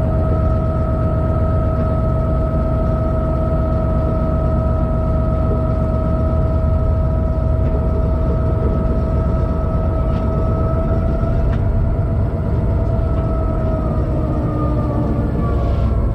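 Inside a freight locomotive's cab on the move: a steady, loud low rumble of engine and running gear, with a steady whine on top that begins to fall in pitch near the end.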